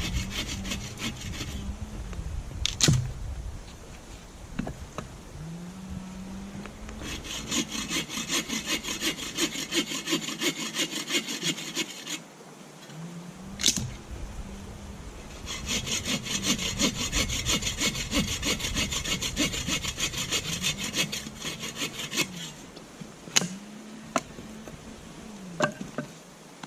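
A hand saw cutting through firewood with fast, even back-and-forth strokes in two long spells, with a few sharp knocks of wood in between.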